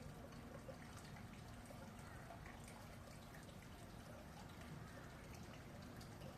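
Red panda chewing bamboo: faint, irregular crunching clicks over a low background rumble.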